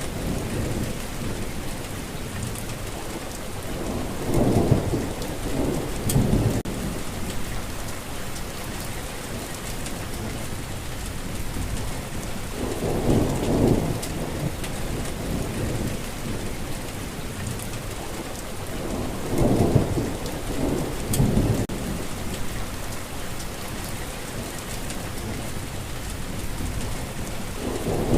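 Steady rain falling, with low rolling rumbles of thunder swelling up and fading about four times.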